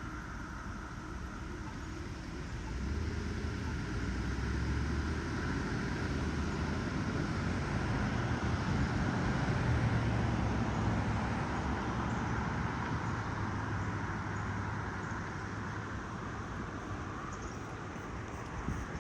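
Steady outdoor low rumble with a noisy hiss, growing louder a few seconds in, loudest around the middle, then easing off.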